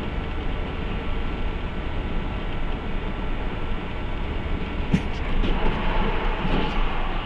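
Steady rumble of a moving vehicle heard from inside. A single sharp knock comes about five seconds in, followed by a few lighter clicks.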